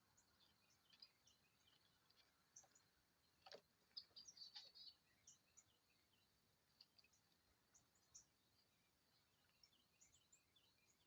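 Faint songbird chirping: many short, high calls scattered throughout, with a single soft click about three and a half seconds in.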